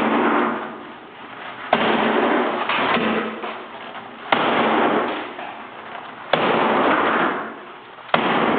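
A tiled bathroom wall being smashed with a hammer: four heavy blows about two seconds apart. Each blow is followed by shattering tile and falling rubble that dies away over a second or so.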